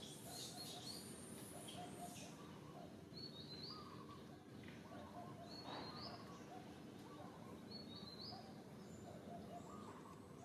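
Faint birds chirping: short high notes come in small groups every second or so, over a low steady outdoor background noise.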